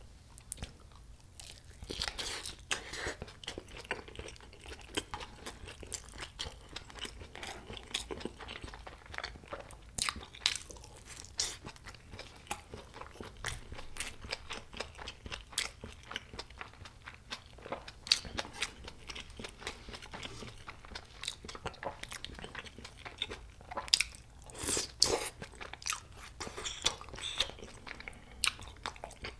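Close-miked chewing of a mouthful of cheese gimbap, with irregular wet clicks and light crunches from about two seconds in.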